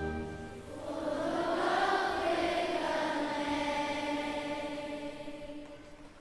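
A choir singing a swelling, sustained phrase that fades away near the end.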